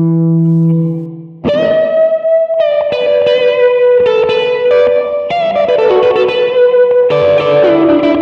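Electric guitar played through a Donner MultiPad-100 multi-effects processor set with warm delay and heavy reverb. A held chord fades out, then about a second and a half in a run of picked notes starts, each one ringing on and blurring into the next.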